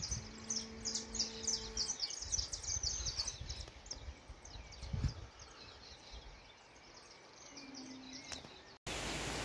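Birds chirping in a rapid series of short high calls, busiest in the first two seconds and thinning out after, over a low rumble. Near the end the sound cuts suddenly to a steady, even hiss-like rushing noise.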